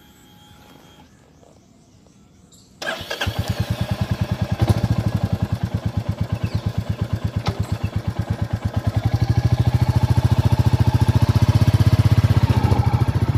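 2022 Royal Enfield Classic 350's 349 cc single-cylinder engine starting about three seconds in, then running at idle with a steady, even beat of exhaust pulses that grows slightly louder in the second half.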